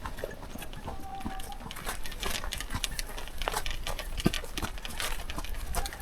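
Ridden horses walking on a trail: an irregular run of hoof clops and knocks.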